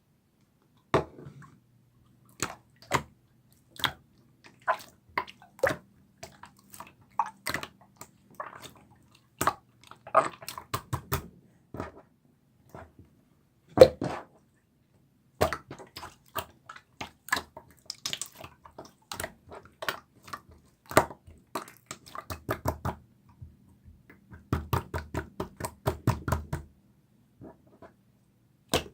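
Slime being squeezed, poked and pressed by hand, making irregular sticky clicks and pops, with denser runs of popping in places.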